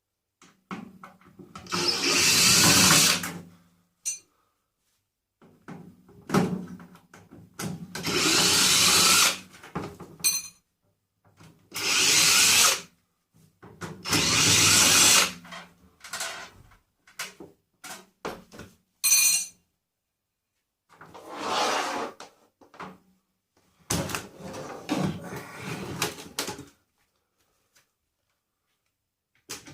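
Power drill-driver running in short bursts of one to two seconds, about six times with pauses between, backing screws out of a microwave being stripped for scrap.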